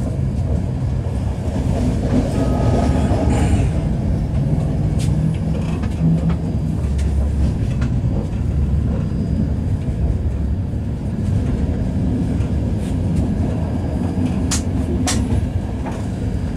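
Passenger train running, heard from inside the carriage: a steady low rumble of the wheels on the track, with a few sharp clicks, two close together near the end.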